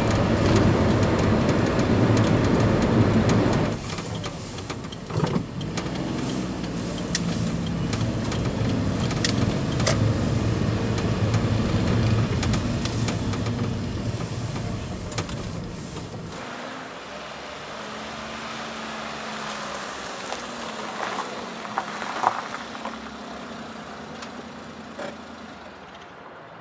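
A vehicle running with steady engine and road noise, in several cut-together stretches; after about 16 seconds it turns quieter and duller.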